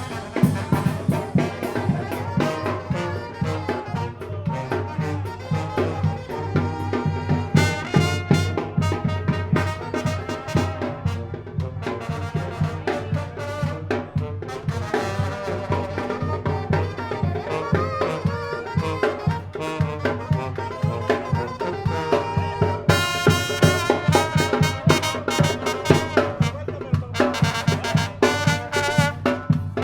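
Tamborazo band playing live: trumpets and trombones carrying the tune over a steady, driving beat of bass drum and cymbal.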